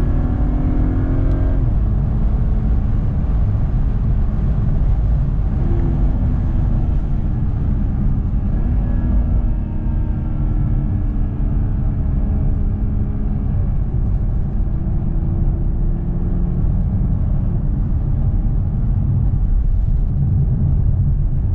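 Car engine and road rumble heard from inside the cabin while driving, a steady low rumble with the engine note stepping up and then slowly falling several times as the car speeds up and eases off.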